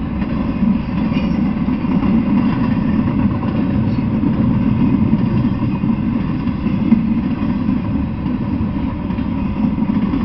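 Intermodal freight train rolling past: a steady rumble of steel wheels on the rails, with one sharper clack about two-thirds of the way through.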